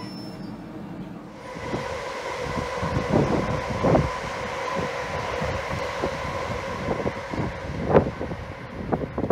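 Greater Anglia Class 720 electric multiple unit passing through a station, its wheels knocking over rail joints over a steady running noise and hum, with wind on the microphone.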